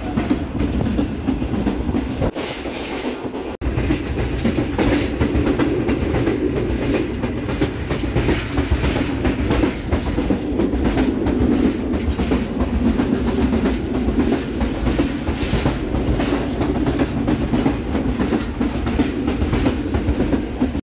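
Passenger train running at speed, heard from inside the carriage by the door: a steady loud rumble of the wheels on the rails with a rapid clatter over the track.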